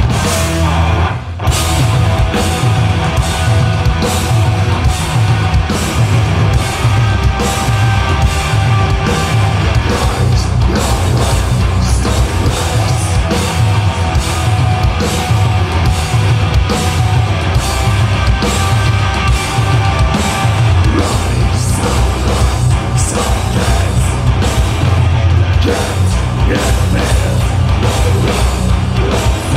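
A live sludge metal band playing loud and heavy, with distorted guitars and bass over pounding drums. The sound drops out briefly about a second in, then runs on dense and unbroken.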